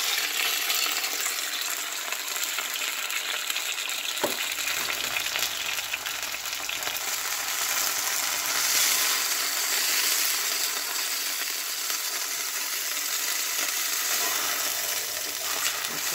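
Flour tortilla frying in melted margarine in a nonstick skillet: a steady sizzling hiss. A single light knock about four seconds in.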